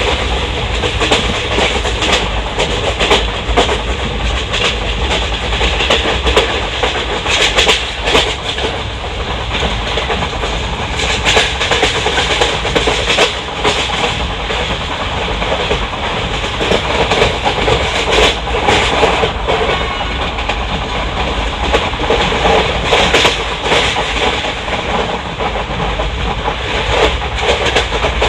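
Track sound from on board an ICF passenger coach running at speed: the steady rumble of wheels on rail, broken by frequent clicks and clacks as the wheels pass over the rail joints.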